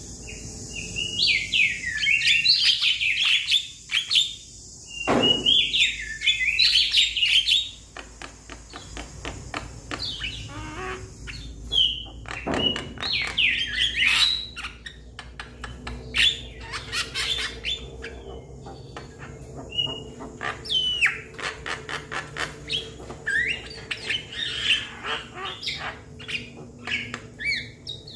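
Young Javan myna (jalak kebo) calling: loud, varied harsh chattering phrases, broken up by runs of rapid clicks.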